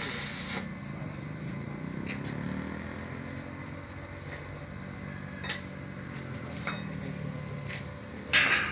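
A motor running with a low, slightly wavering hum, with a few scattered clicks and one short loud burst of noise near the end.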